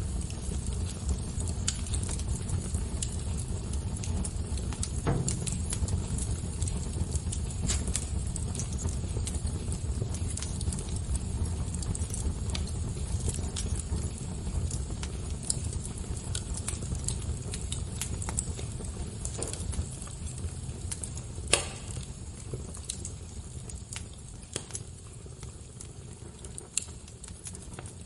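Wood fire crackling: a steady low rumble of flames with scattered sharp crackles and pops, one louder pop about three-quarters of the way through.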